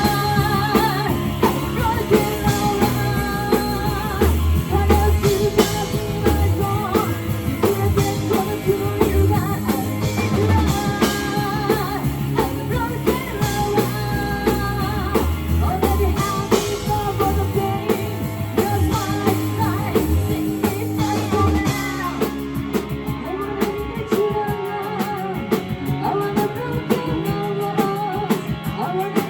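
Live rock band playing: drum kit, electric guitar and bass, with singing.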